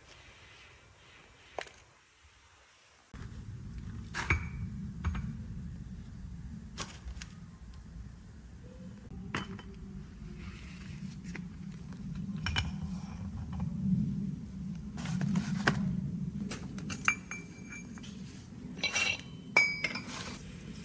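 Metal parts and tools clinking and knocking together as a truck gearbox is worked on, some strikes ringing briefly. A steady low hum starts suddenly about three seconds in and runs under the clinks.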